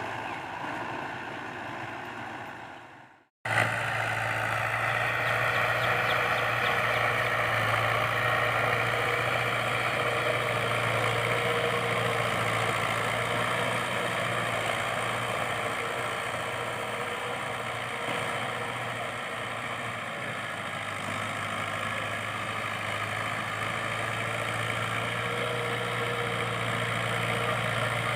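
Fiat 640 tractor's four-cylinder diesel engine running steadily while pulling a fully lowered 11-tine cultivator. The sound fades out and cuts off about three seconds in, then comes back louder and stays steady.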